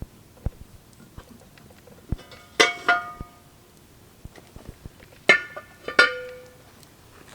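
Hard metal pieces clinking together, each strike ringing briefly: two pairs of clinks, the first pair close together and the second about three quarters of a second apart. Faint small ticks lie between them.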